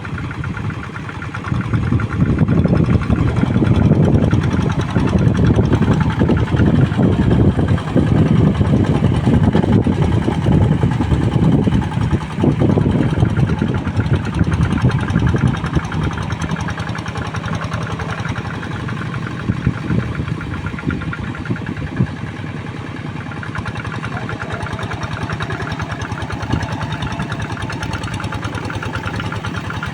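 Two-wheel hand tractor's single-cylinder diesel engine running. It is louder and rougher under load for the first half, then settles to a lower, steady running sound from about halfway on.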